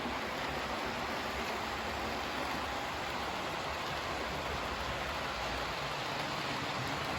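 Hornby OO gauge model trains running on the layout's track: a steady whirr of wheels on rails and small motors.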